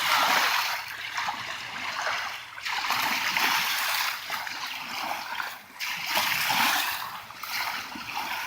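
Kayak paddle strokes splashing through the water, each stroke a rushing swell of splash that fades before the next, in an uneven rhythm.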